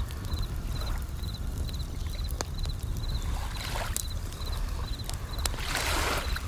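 Japanese bell crickets (suzumushi) chirping in short high trills about twice a second, over a campfire crackling with sharp pops and a low wash of waves that swells twice.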